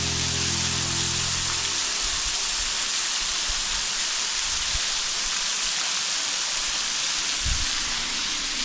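Steady, loud hiss of rushing water. A low held musical chord sounds under it and stops about two seconds in.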